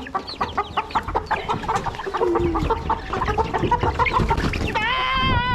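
A flock of chickens clucking, many short calls in quick succession. Near the end a long, steady-pitched call or tone starts and is held.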